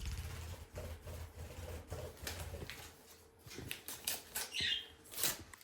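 Paper crinkling and rustling as a greeting card is taken out of its envelope, in many short crackles. A short chirp from a pet bird about four and a half seconds in.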